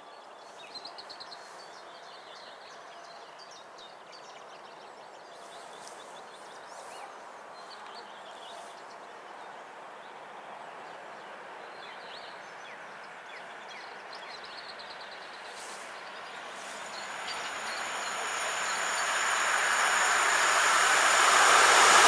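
Electric locomotive EP07 hauling a rake of passenger coaches, approaching at line speed: a faint distant rumble that grows steadily louder over the last several seconds as the train nears. A high steady ringing joins about two-thirds of the way through.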